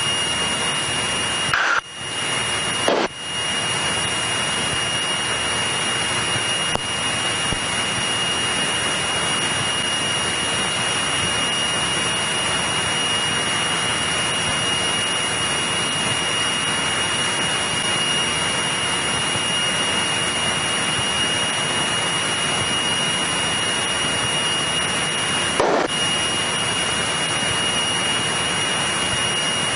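Steady cabin noise of a Cessna 172E in the climb, its Continental O-300 engine and airflow heard as an even hiss with a thin steady high tone. It drops out briefly about two and three seconds in and once near the end.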